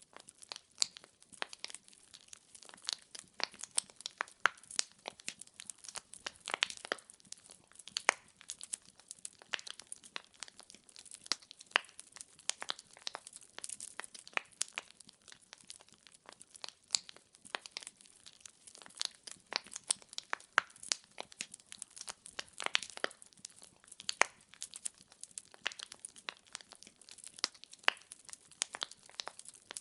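Wood fire in a fireplace crackling, with frequent sharp irregular pops and snaps of burning logs over a faint hiss.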